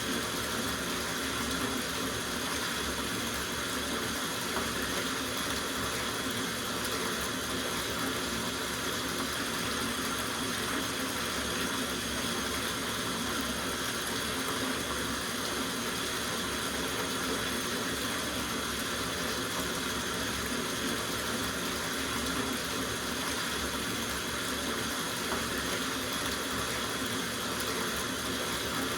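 Tap water running steadily into a soak bathtub, a constant even rush with no breaks.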